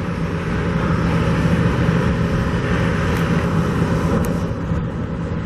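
A steady engine-like rumble with a low hum, swelling a little in the first half and easing near the end.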